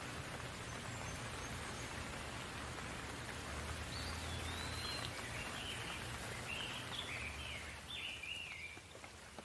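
Steady rain hissing, with a bird chirping a few short phrases in the middle. The rain eases a little near the end.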